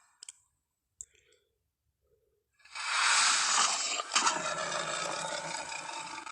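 Film sound effect of a male Tyrannosaurus rex: after a near-silent pause with a couple of faint clicks, one long, noisy call starts about two and a half seconds in, swells quickly and fades out over about three and a half seconds.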